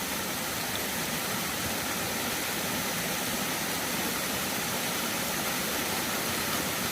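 Steady rush of water from a waterfall stream, an even hiss with no change in level.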